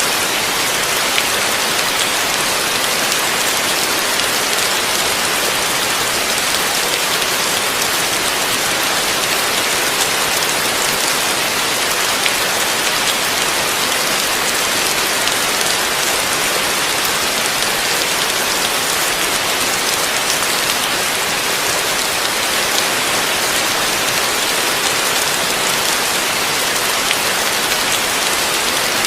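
Heavy rain falling steadily, a dense even hiss of drops with faint individual patters, no change in intensity.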